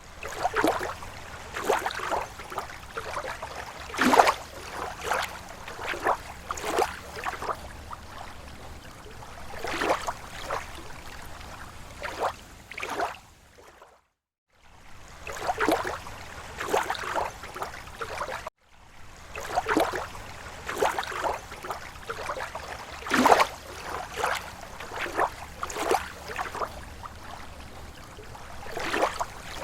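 Small lake waves lapping against the shore: irregular splashes and slaps, a few a second, over a steady wash of water. The sound cuts out to silence for about half a second around the middle and drops out again briefly a few seconds later.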